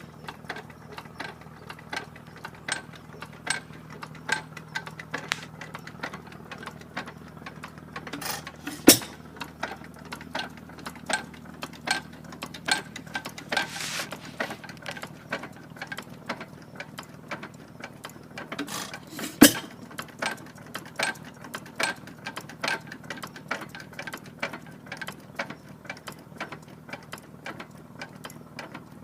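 Gray Motor Co. 4 hp hit-and-miss stationary engine running: a steady stream of sharp clicks as it turns over and coasts between power strokes, broken by two much louder sharp bangs about 9 seconds and about 19 seconds in, where it fires.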